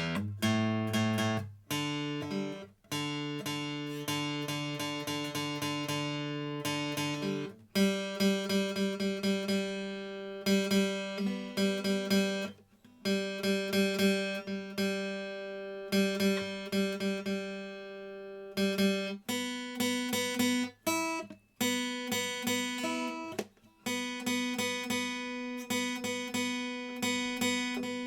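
Seagull S6 mahogany acoustic guitar with fresh strings being tuned: the same notes and chords plucked and strummed over and over, with short pauses between.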